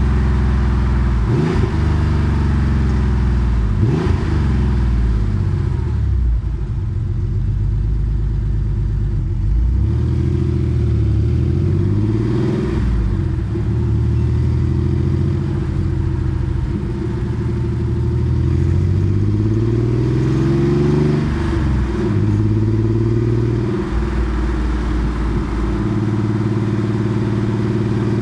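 Porsche 964 Carrera 2's air-cooled flat-six through a centre straight-through muffler, heard on board while driving. The engine pitch climbs and drops repeatedly, with several gear changes and lift-offs, then settles into a steady cruise near the end.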